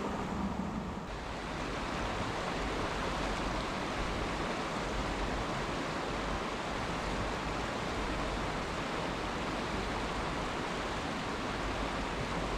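Steady rush of flowing water from a mountain stream, an even hiss with no distinct events.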